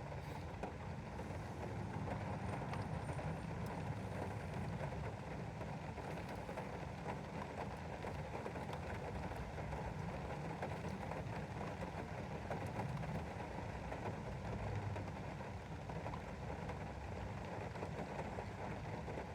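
Steady rain pattering on a window, with a low rumble underneath.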